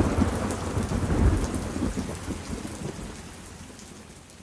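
Thunder rumbling deep over steady rain, the rumble dying away and the whole sound fading gradually.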